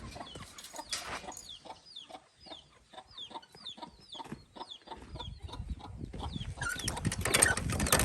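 Chickens calling with short, repeated high-pitched calls, about two or three a second. Rustling and handling noise builds near the end.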